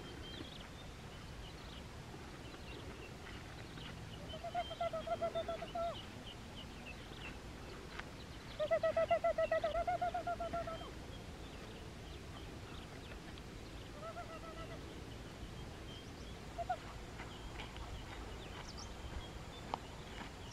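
A bird calling several times, each call a run of rapid, even pulses lasting one to two seconds, the second call the longest and loudest. Faint high chirps of other small birds come and go underneath.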